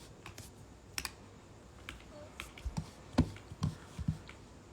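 Irregular light clicks and taps like typing, about a dozen scattered strokes, a few louder ones near the end.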